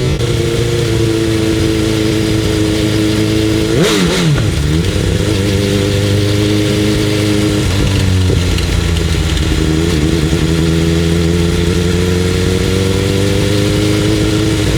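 Motorcycle engine running loud and steady, with a brief dip and rise in pitch about four seconds in and the pitch creeping up slightly near the end.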